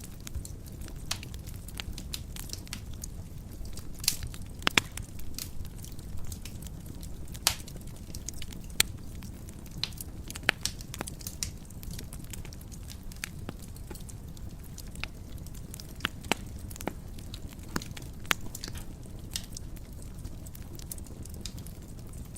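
Wood fire burning in a fireplace: a steady low rumble of flames with frequent sharp, irregular crackles and pops, a few of them much louder.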